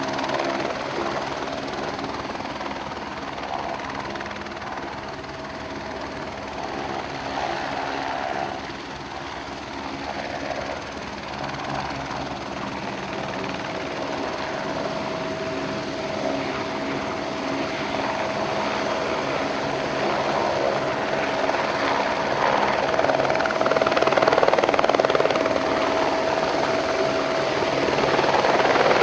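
Helicopter flying: a steady rotor and engine sound with a high turbine whine, growing louder over the second half as it comes closer.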